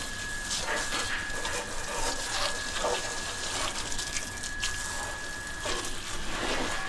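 Water spraying and splashing while a motorcycle is washed, with a steady high whine underneath.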